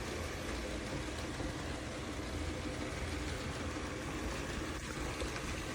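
MOVA P10 Pro Ultra robot vacuum-mop running steadily as it cleans the floor: an even motor whir.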